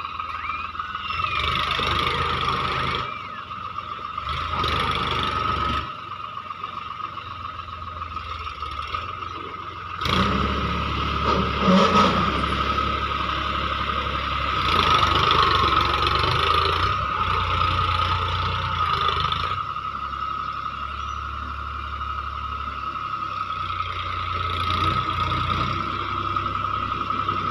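Tractor engine running, swelling louder several times as it is revved, with a steady whine underneath.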